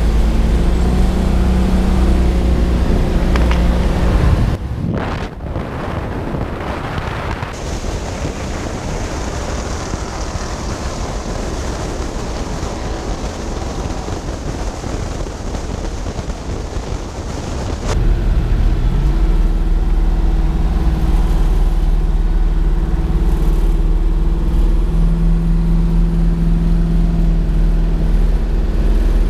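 Twin-turbo 5.3 L LS V8 of a 1974 Chevrolet Nova running, a steady low drone. About 4.5 s in it gives way abruptly to a quieter, rushing noise, and the loud low drone returns about 18 s in.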